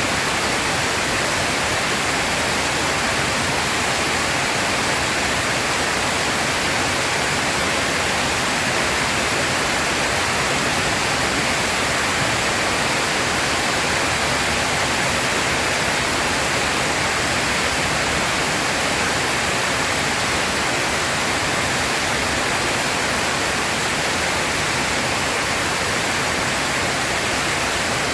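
Heavy rain pouring down, a dense, even hiss that holds steady with no breaks or claps of thunder.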